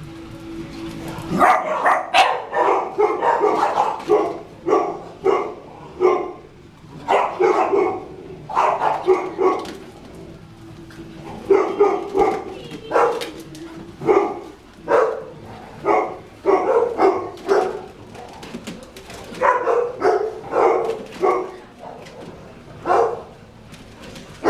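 Dogs play-barking: a dachshund and a Shiba Inu puppy at rough play, with many short barks in quick runs and a few brief pauses.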